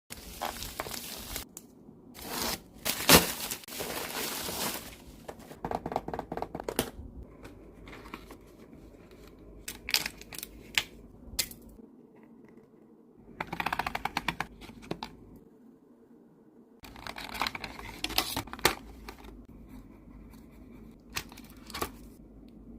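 Packaging being torn open and crinkled while an art-supply box is unboxed, with sharp clicks and light knocks from handling the box and its contents. Several spells of tearing and rustling come and go, with short quiet gaps between.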